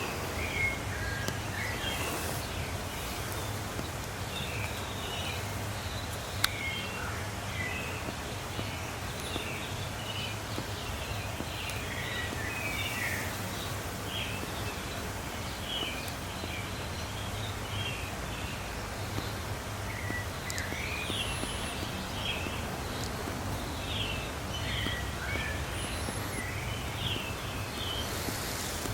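Many small birds chirping in short, scattered calls over a steady low hum, with a single sharp click about six and a half seconds in.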